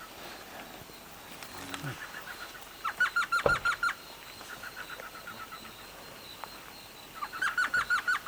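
A bird calling in two quick runs of about eight sharp, evenly spaced notes each, with a fainter run of similar notes between them.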